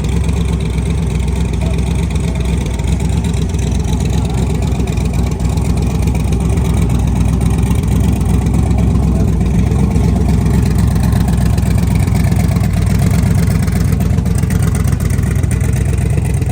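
A car engine running close by, steady and a little louder through the middle.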